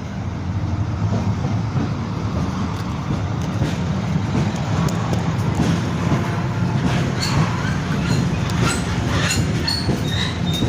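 A Class 70 diesel locomotive running past at the head of a freight train, its engine giving a steady low rumble. Through the second half the wheels click over the rail joints and squeal in short high notes.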